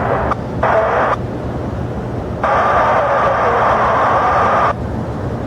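Air traffic control radio keying on and off: two abrupt bursts of narrow-band radio hiss, the longer one, about two and a half seconds in, carrying a steady tone, over a steady low rumble of jet aircraft at the airport.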